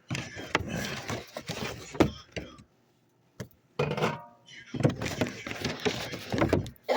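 Drink cans and their cardboard box being handled while loading a fridge: rustling and clunks in two spells, with a sharp knock about two seconds in and a second of quiet in the middle.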